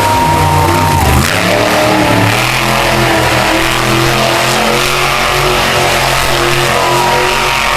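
Monster truck engine running loud, a deep steady drone under a wash of arena noise.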